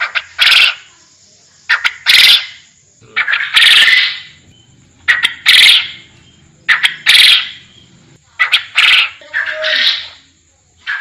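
Forest quail (puyuh hutan) calling over and over, one phrase about every second and a half. Each phrase is a quick short note or two followed by a louder, longer note.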